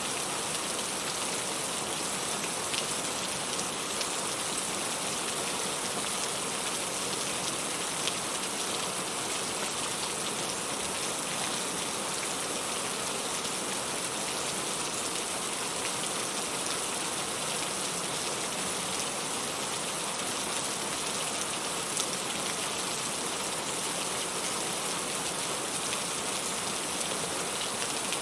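Steady rain falling, an even hiss that never changes, with a few faint scattered drop ticks and one slightly louder drop near the end.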